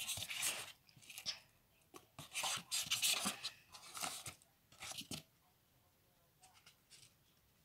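Scratchy rustling and scraping in short bursts, as of hands rummaging through a roach enclosure's dry substrate, stopping a little past five seconds in.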